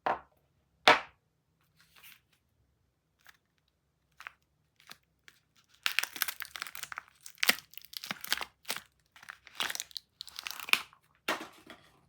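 Soap packaging being torn and crinkled open by hand. Two sharp rustles come in the first second, then a few faint ones, then about six seconds of dense crinkling and tearing.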